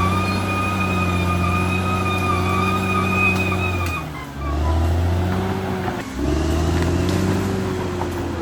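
Caterpillar D6R XL bulldozer's diesel engine running steadily, with a high whine over it that stops about four seconds in. The engine note drops away briefly twice, near the middle and again about six seconds in, then picks back up.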